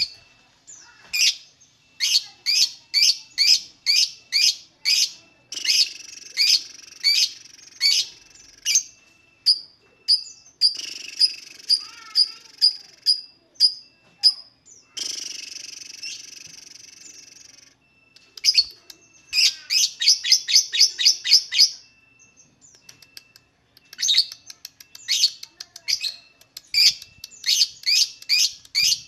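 Lovebird chirping: runs of sharp, shrill chirps about two a second, quickening into a fast trilling chatter near the middle. A harsh, raspy call follows, then more quick runs of chirps toward the end.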